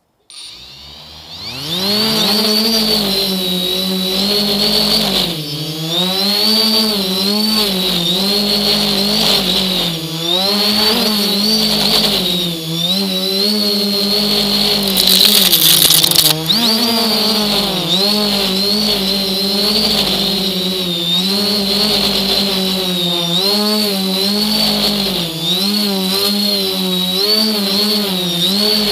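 A motor with a vibration problem starts up and spins up to speed, then runs with a steady hum and a high whine, its speed wavering up and down every second or two. A brief hiss comes about halfway through.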